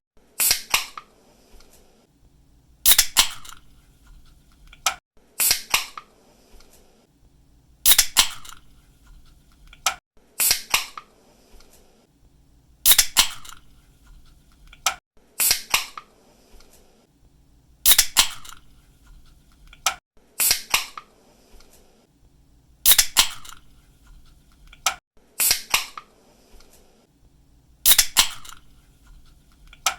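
Aluminium soda or energy-drink can being cracked open by its pull-tab, over and over: each time a sharp snap followed by a short hiss, repeating about every two and a half seconds, twelve times in all.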